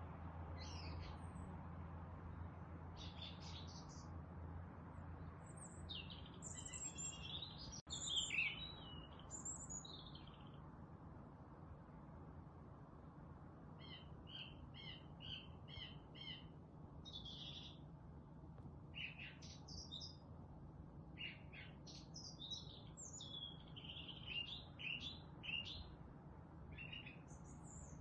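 Several wild songbirds chirping and singing in scattered short phrases over a steady low background hum. About halfway through, one bird gives a quick run of about eight short, evenly spaced notes.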